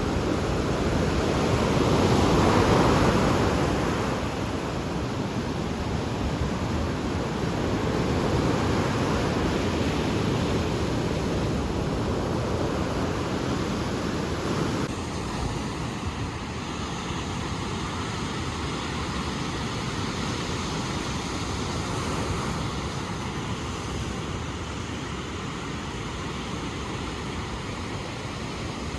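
Ocean surf: waves breaking and washing in as a continuous rush. It swells twice in the first ten seconds and turns a little quieter about halfway through.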